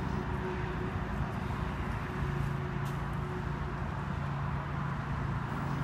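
Steady low mechanical hum over constant outdoor background noise, with one brief click about three seconds in.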